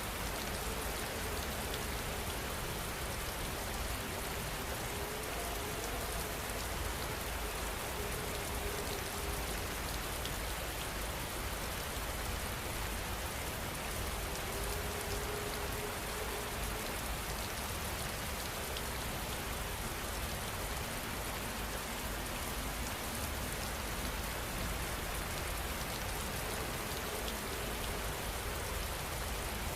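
Steady rain falling, a continuous even hiss of drops with no change in strength.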